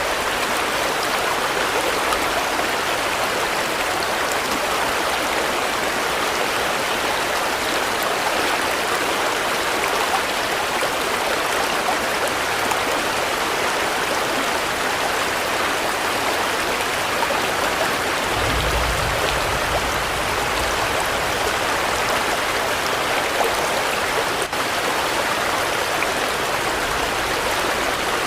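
Steady, even rainfall with no pauses or changes in intensity. A brief low rumble comes in about two-thirds of the way through.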